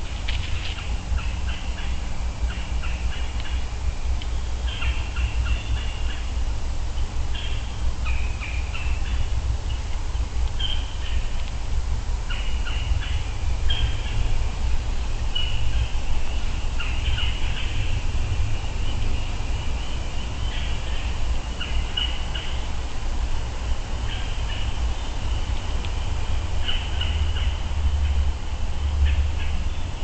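Wild birds chirping and calling in short, irregular bursts over a steady low rumble.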